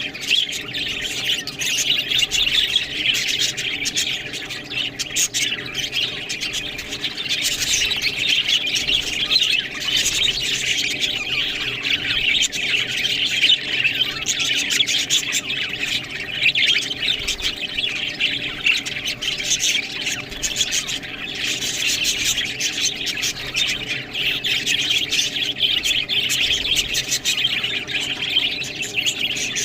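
Budgerigars chattering nonstop, a dense tangle of squawks and warbling chirps. A faint steady hum runs underneath.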